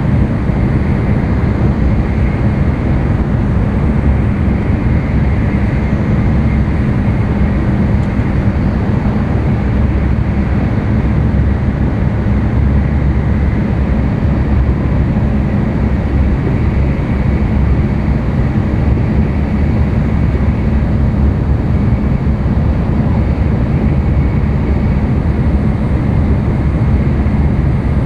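N700-series Tokaido Shinkansen train running at speed, heard from inside the passenger cabin: a steady low rumble with a fainter hiss above it.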